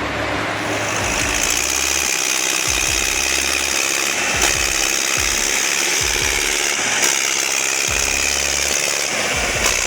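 Heavy machinery running: a loud, steady mechanical noise with a strong hiss, over a low rumble that comes and goes every second or so.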